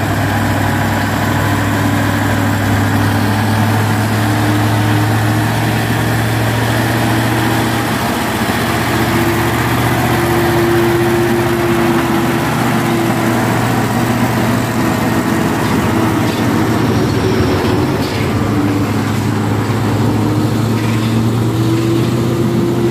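Heavy diesel truck engine running steadily, pulling on the hill climb, its pitch rising slightly now and then.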